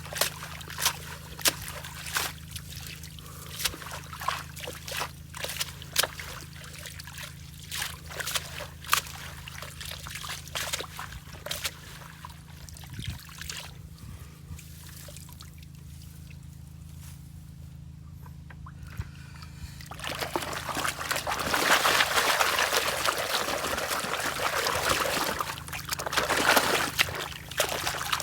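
River sand, gravel and water worked in a gold pan: small stones click and water trickles and sloshes, then about two thirds of the way through a louder, steady rush of splashing water.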